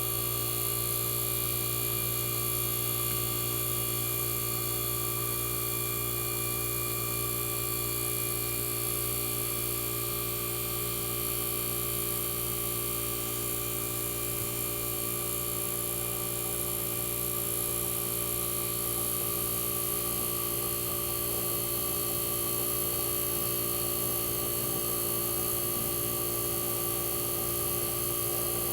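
Tecumseh AJM reciprocating compressor in a 1965 Fedders Weather Wheel 12,000 BTU window air conditioner running steadily: a constant low hum with several steady higher tones over it.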